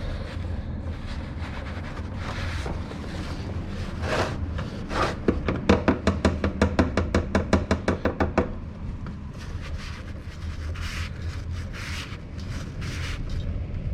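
Ratchet wrench clicking in a fast, even run for about three seconds, starting about five seconds in, among scattered handling noises over a steady low hum.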